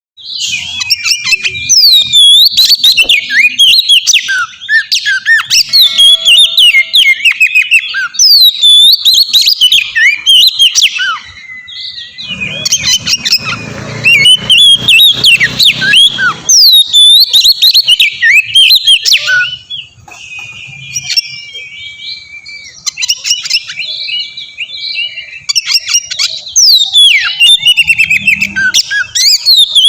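Oriental magpie-robin (kacer) singing a loud, fast, varied song of whistled notes and pitch sweeps, in long phrases broken by short quieter pauses.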